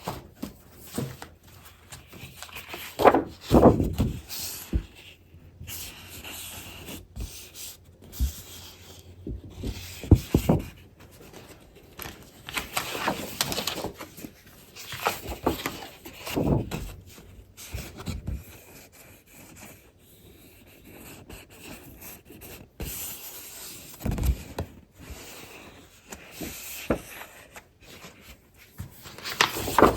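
Paper-crafting supplies being handled and looked through: irregular rustling and crinkling of paper and packaging, with occasional light knocks.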